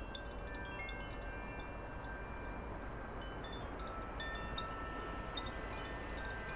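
Wind chimes ringing, many overlapping held tones of different pitches, over a steady hiss of wind.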